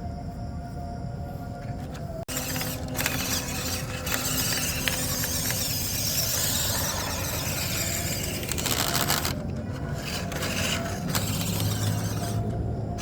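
A small electric RC off-road truck driving on a dirt track: its motor and gears whine, and the tyres scrabble and scrape over the wet ground. The sound breaks off sharply about two seconds in, then comes back with a stronger hiss for several seconds.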